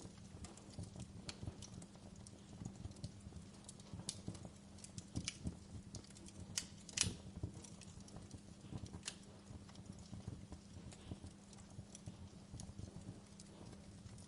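Log fire crackling: irregular pops and snaps of burning wood, with a couple of louder pops about seven seconds in, over a steady low hum.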